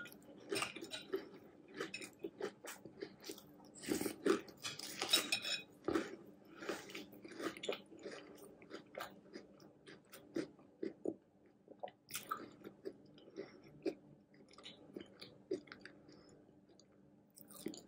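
Close-up chewing of a mouthful of chocolate hot cocoa cereal with marshmallows in milk: soft crunches and wet mouth clicks, busy for the first several seconds, then thinning out to scattered clicks toward the end.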